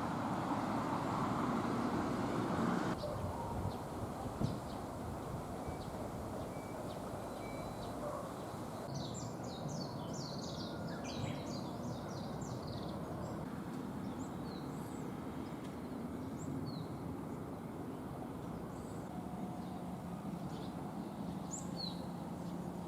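Wild birds chirping over a steady rumble of distant traffic. The rumble is loudest for the first few seconds, and a flurry of quick high chirps comes about ten seconds in, followed by scattered single chirps.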